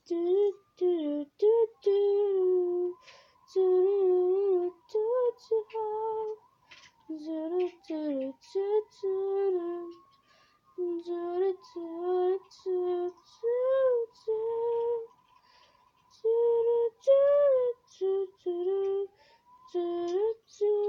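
A single voice singing a tune unaccompanied, in short notes and phrases with brief pauses between them.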